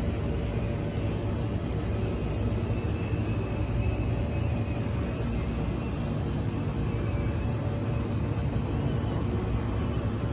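Steady low mechanical hum with an even background noise.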